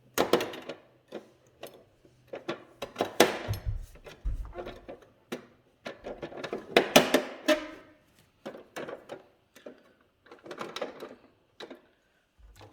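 Cardboard and plastic toy packaging being handled and pried at, an irregular run of clicks, scrapes and rustles with louder bursts about three and seven seconds in, as a taped-up panel is worked loose.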